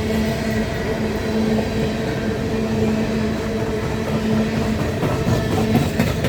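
Coal train rolling on the rails: a steady rumble with a constant hum, and a few sharp clicks near the end.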